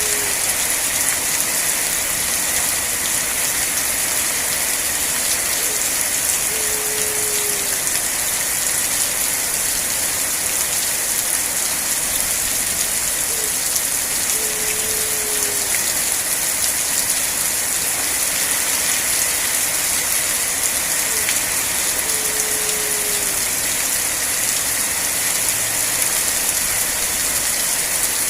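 Steady rain falling, an even hiss. A faint short low tone, dropping in pitch, recurs about every eight seconds.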